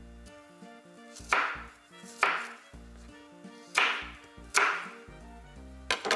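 Kitchen knife striking a cutting board in four loud strokes, in two pairs each a little under a second apart, over background music.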